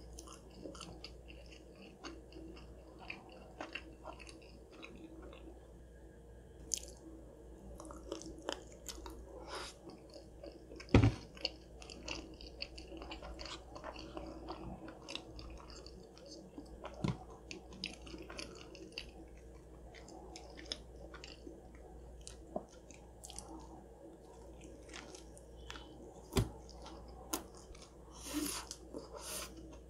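Close-miked eating sounds: chewing of mac and cheese and a chicken sandwich, with soft wet mouth smacks and small crunches. A sharp knock comes about eleven seconds in, and fainter ones follow later.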